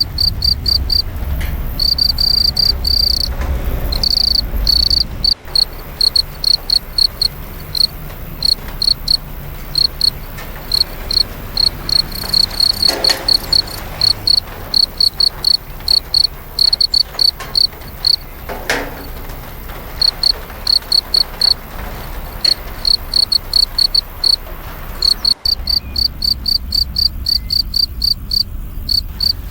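Crickets chirping, a rapid string of short high chirps about four a second, breaking off in short pauses now and then, over a low steady rumble.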